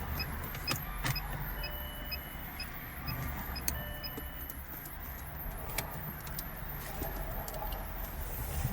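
Inside a car: a faint, short electronic tick about twice a second for the first half, over a low steady hum, with a few scattered clicks from handling the console trim.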